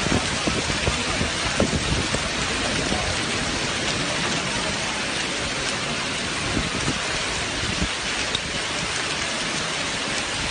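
Heavy rain pouring steadily during a thunderstorm, with many small knocks of drops striking hard surfaces.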